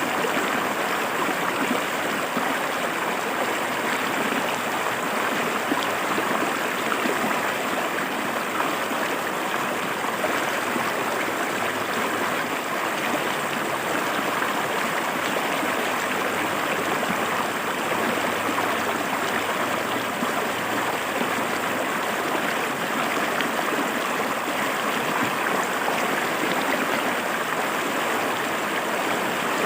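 Shallow river water flowing and splashing over rocks in a steady, even rush.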